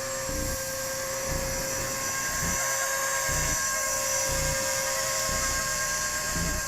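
Electric 230S-size RC helicopter in flight, its upgraded brushless main motor, gears and three-blade rotor giving a steady high whine that wavers slightly in pitch. Wind gusts buffet the microphone with an irregular low rumble.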